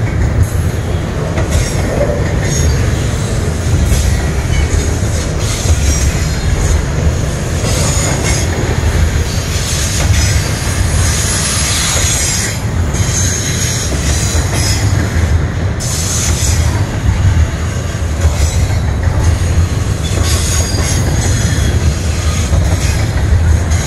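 Double-stack intermodal well cars rolling past on steel wheels: a steady heavy rumble, with high-pitched wheel squeal and hiss that come and go.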